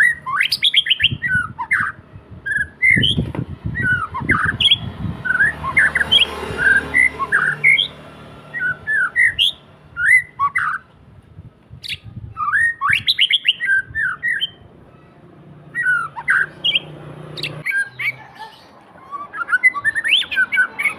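Caged white-rumped shama singing in phrases of quick, varied whistled notes and chirps that rise and fall, with short pauses between phrases.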